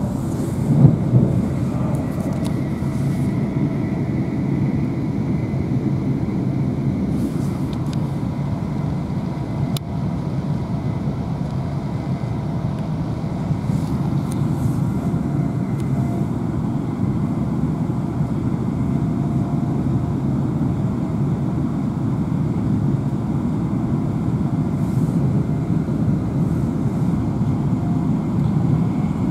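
Steady running noise inside a Class 350 Desiro electric multiple unit at speed: a low rumble of wheels on rail and car body, with a faint steady high whine over it.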